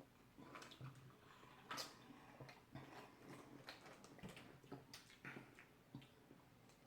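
Near silence, with faint, irregular little clicks and handling noises as a fizzy drink is sipped from cups.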